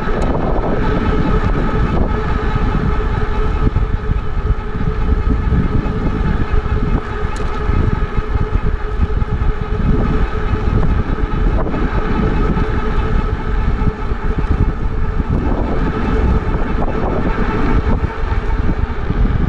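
Wind buffeting the microphone of a moving e-bike, over a steady whine from the bike's electric motor.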